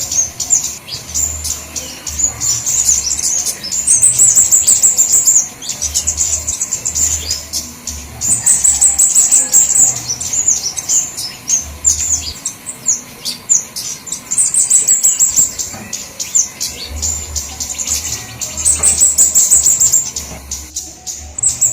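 Flowerpeckers (kemade / cabe-cabean) calling in a bird-lure recording: loud bursts of high, rapid twittering and ticking chatter every few seconds, with a low intermittent rumble underneath.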